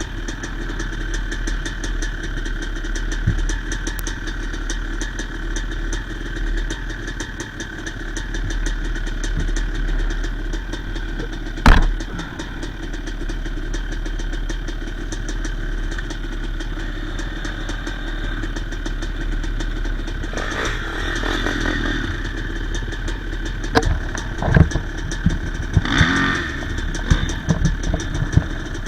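Yamaha YZ250's single-cylinder two-stroke engine idling steadily. A single sharp bang comes about twelve seconds in, and a run of knocks and clatter comes near the end.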